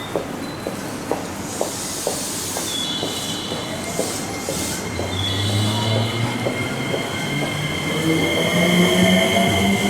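Electric train at a station platform: wheels clicking over rail joints about twice a second with a high wheel squeal, then a motor whine rising in pitch from about halfway through as the train picks up speed.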